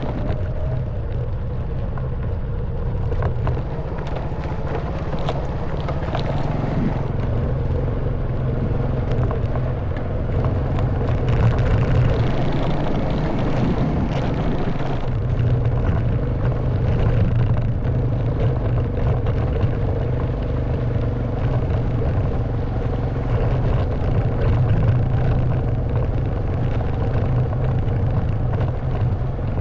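Honda Wave 110cc single-cylinder four-stroke motorbike engine running steadily while riding over a rough stone track, with frequent small knocks and rattles from the bumps and some wind noise.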